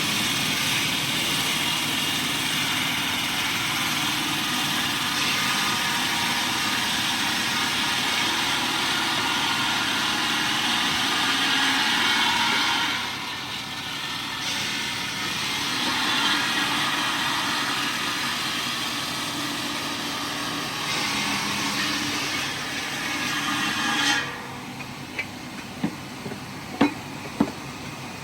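Heavy machinery running steadily with a hiss-like mechanical noise. It dips about halfway through and cuts off suddenly near the end, and a few sharp knocks follow.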